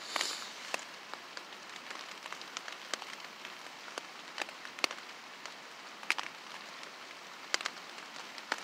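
Rain falling, a steady patter with irregular sharp drops tapping close by. A brief hiss sounds right at the start.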